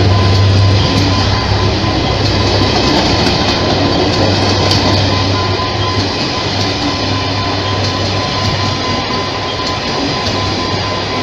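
Train running on the rails: a dense steady rumble with a low hum and a thin steady whine, slowly getting quieter.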